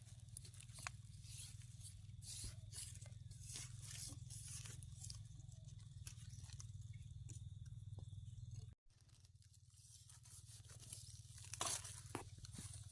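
Irregular crunching and crackling over a steady low hum, broken by a brief cut about nine seconds in.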